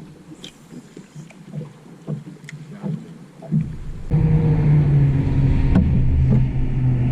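A few light knocks, then a boat's outboard motor comes in suddenly about four seconds in and runs steadily.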